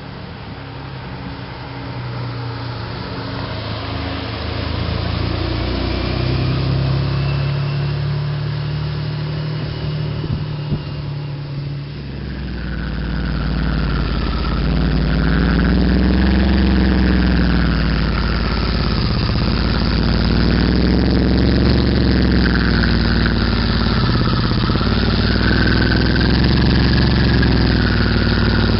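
Turbocharged DeLorean's PRV V6 engine running through a stainless steel exhaust. About twelve seconds in it gets louder, and its pitch then rises and falls back several times as the revs climb and drop.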